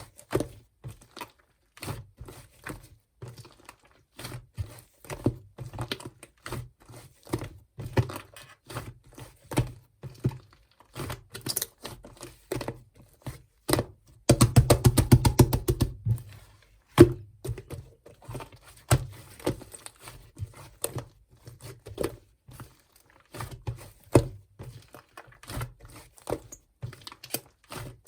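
Hands pressing and poking a clay slime, making irregular sticky clicks, pops and soft thuds; about halfway through, a quick burst of rapid clicking pops lasts about two seconds.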